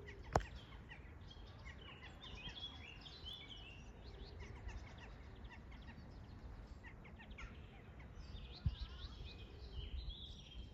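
Small birds chirping and singing, many short quick notes, over a steady low rumble. A sharp click comes just after the start and a thump near the end.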